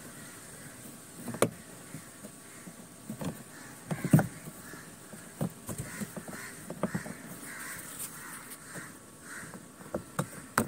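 Scattered clicks and knocks from hands working on a washing machine's plastic cover and its screws, the loudest knock about four seconds in.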